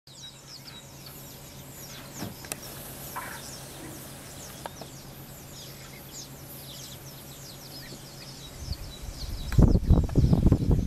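Birds chirping and singing in the bush, many quick falling notes one after another, over a faint steady low hum. About nine seconds in, loud irregular low rumbling noise takes over.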